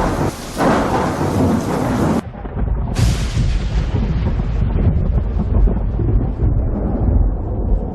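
Thunderstorm: a sharp, crackling thunderclap that breaks off about two seconds in, a second crack about three seconds in, and a long low rumble of thunder rolling on beneath, with rain.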